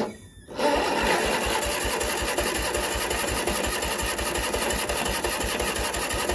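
A click, then about half a second later the electric starter of a Husqvarna GT garden tractor cranks its twin-cylinder engine with a steady rhythmic chug. This is a cold start after winter storage, with the choke on and a battery not charged for two months, and the engine is turning over without catching.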